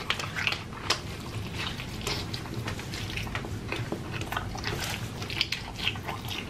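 Close-miked chewing and biting of food, with many small wet clicks and crackles.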